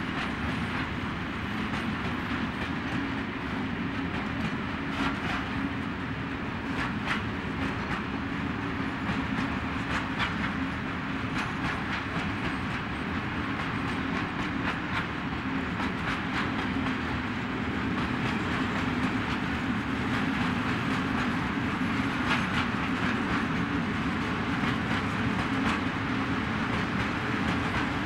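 Open coal wagons of a long freight train rolling past: a steady wheel-on-rail rumble with scattered clacks as the wheels cross rail joints, growing a little louder in the second half.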